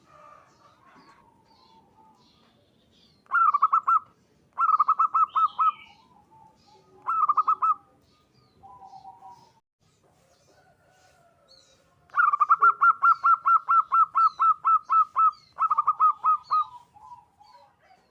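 Zebra dove (perkutut) cooing in runs of quick, evenly repeated notes. There are three short runs, then a long run of about five seconds near the end. Faint high chirps of small birds sound in the background.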